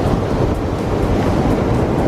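Waves washing on a beach, a steady loud rush that comes in abruptly, with wind on the microphone.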